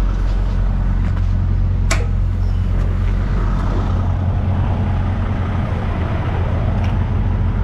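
Semi truck's diesel engine running with a steady low drone, with one sharp click about two seconds in.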